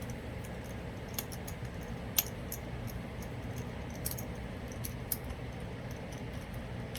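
Light metallic clicks and clinks of small steel bolts and a wrench being handled as the engine case bolts of a Hawk 250 motorcycle are taken out, a few scattered taps with the sharpest about two seconds in, over a steady low hum.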